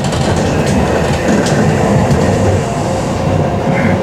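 Nozomi Shinkansen bullet train running, heard from inside the passenger car: a steady low rumble of the wheels and running gear with a few light clicks.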